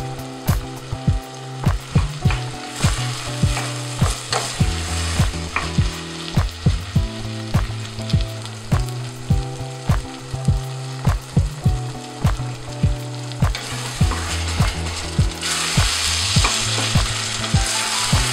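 Food sizzling in a frying pan, with the sizzle getting louder near the end, under background music with a steady beat.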